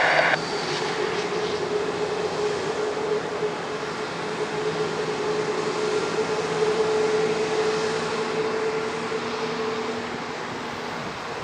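Boeing 787-9's Rolls-Royce Trent 1000 jet engines running at idle while it taxis: a steady rushing hum with a held whining tone that fades out near the end.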